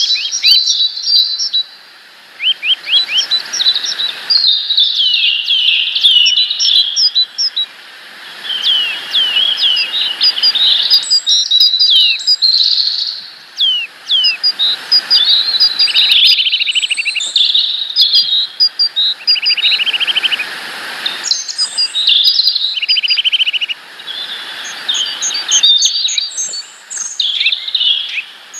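Small songbirds singing and calling: quick, varied high chirps and whistled phrases, broken by short buzzy trills a few times.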